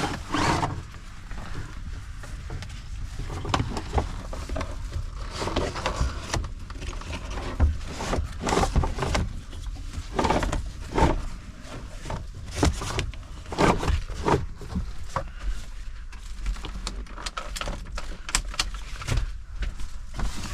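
A seat belt being handled and pulled tight to tie a truck cab's door handle shut: scattered clicks, knocks and rustles of the webbing and buckle against the door, over a steady low hum.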